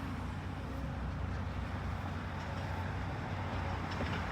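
A large engine running steadily with a low rumble, with a few faint knocks.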